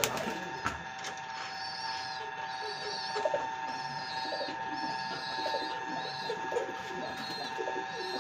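Domestic pigeons cooing in low, irregular bursts. A steady high hum and repeated high wavering calls run underneath.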